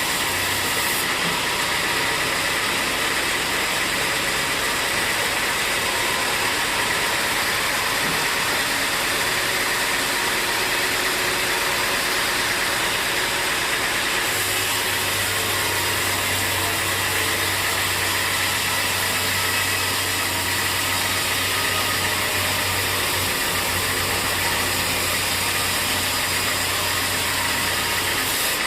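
Steady, loud sawmill machinery running, with a low hum joining about halfway through.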